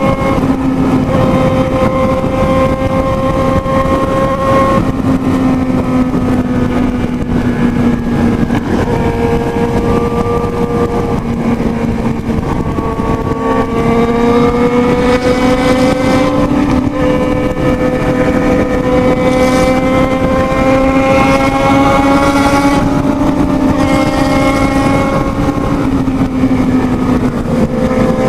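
Motorcycle engine running hard at high revs, its pitch dropping and climbing again several times as it changes gear and speed.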